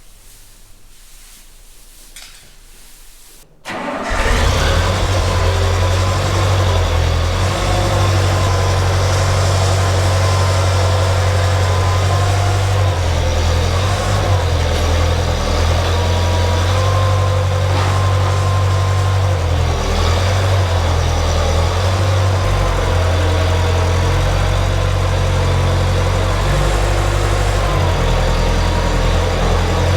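A vehicle engine comes in abruptly about four seconds in, after quiet, and then runs loud and steady with a deep, even hum.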